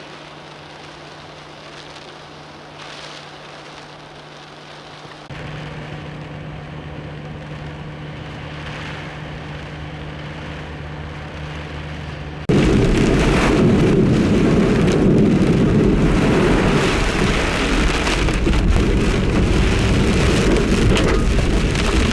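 Rain with a steady low hum, then about halfway through a sudden jump to loud, dense rushing: heavy rain and flood-water spray hitting a vehicle as it drives through standing water.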